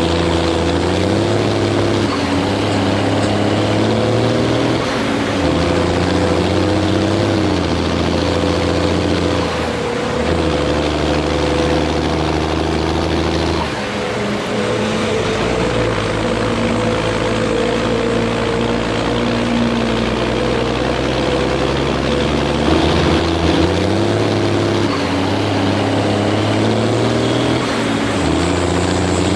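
John Deere combine harvester's diesel engine running hard under load on a climb, a steady drone whose pitch shifts in steps several times.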